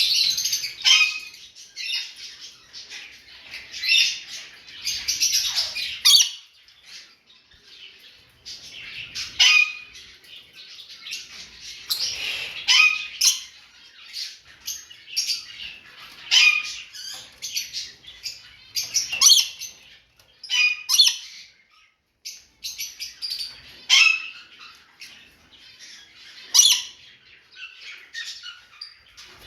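Pet lovebirds calling: shrill, high chirps and squawks in irregular bursts every second or so.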